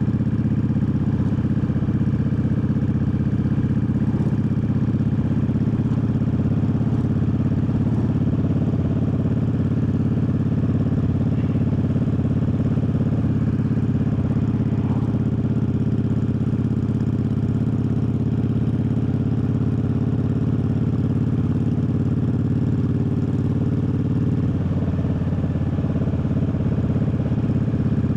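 Triumph Bobber's 1200 cc parallel-twin engine running steadily at an even pitch, with a brief shift in engine note near the end.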